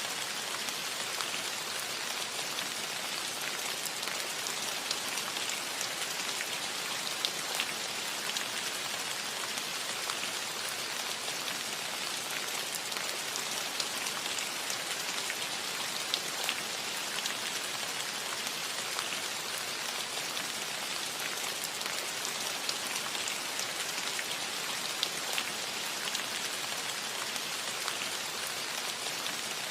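Steady rain falling on a roof, an even hiss with many small drop ticks scattered through it.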